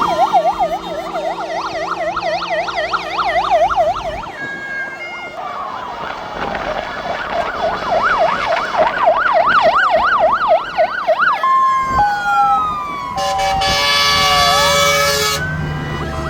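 Several fire engine sirens sounding at once as the vehicles pass: a fast yelp warbling up and down, a slow wail rising and falling, and steady two-tone notes alternating. Near the end comes a loud buzzy blast about two seconds long.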